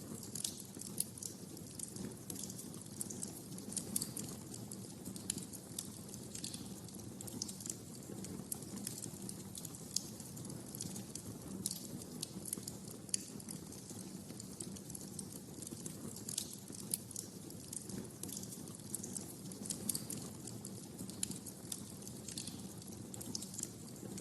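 Wood fire crackling in a fireplace: many irregular sharp pops and snaps over a steady low rush of burning.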